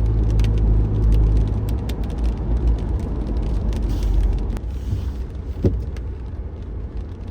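A car driving: low road rumble with scattered light ticks. A brief hiss comes about four seconds in, and the rumble eases near the end.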